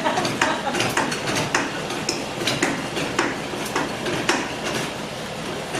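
Floor jack being pumped in short strokes, a metallic click or knock with each stroke about twice a second.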